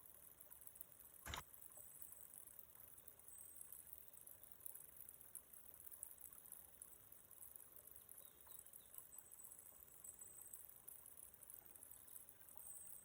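Near silence: faint background hiss, with one sharp click a little over a second in.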